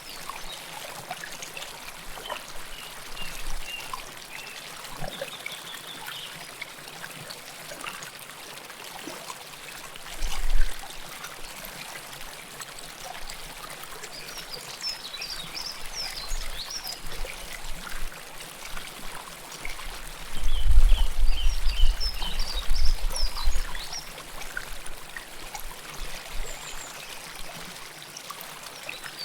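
Close-up river water trickling and pouring, with scattered bright plinks over the steady flow. A brief low rumble comes about ten seconds in, and a longer one of a few seconds about two-thirds through; these are the loudest sounds.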